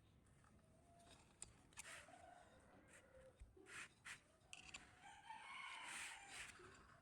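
A rooster crowing faintly in the background, with the longest call near the end, and a few sharp clicks or taps in the middle.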